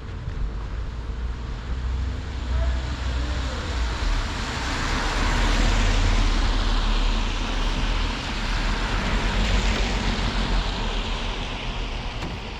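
Road traffic going past on the street: a broad tyre-and-engine hiss swells in the middle and slowly fades toward the end, over a steady low rumble.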